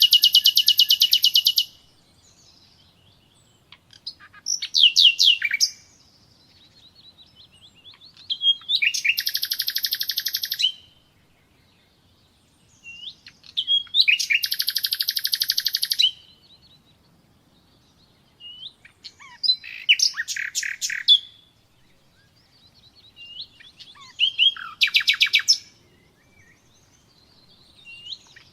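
Nightingale singing: a run of separate phrases, each a rapid burst of repeated high notes lasting one to three seconds, with short pauses between them.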